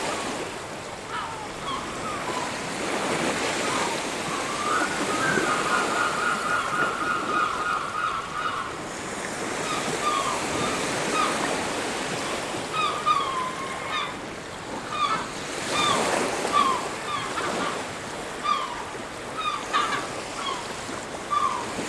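Surf washing steadily on a beach, rising and falling, with birds calling over it: many short, sliding calls throughout and a rapid chattering series of calls from about five to eight and a half seconds in.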